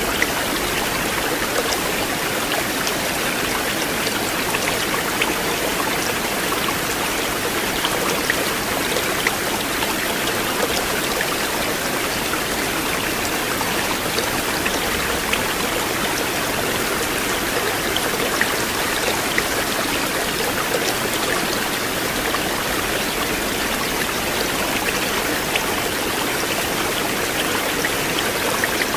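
River water flowing steadily over stones: an even rushing with small splashes and trickles scattered through it.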